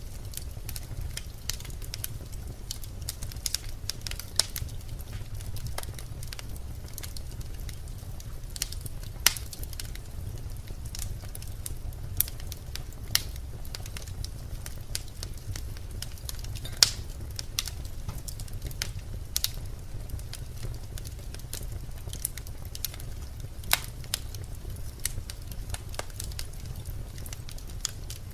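Birch logs burning in a fireplace, crackling with frequent irregular sharp pops over a steady low rumble. A few pops stand out louder, the loudest about two-thirds of the way through.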